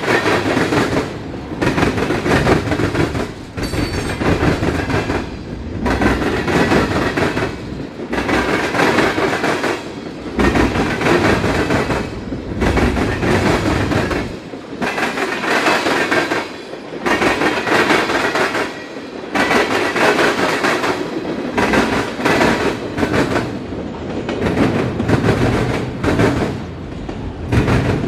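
Freight train cars (tank cars, covered hoppers and autoracks) rolling past, their wheels clattering over the rail joints in swells about every two seconds as each car's wheel sets go by.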